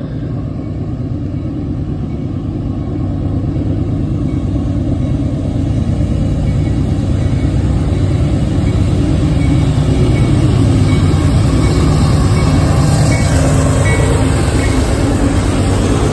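Diesel locomotives leading a CSX coal train, their engines running in a low rumble that grows louder as the train approaches and is loudest about two-thirds of the way through.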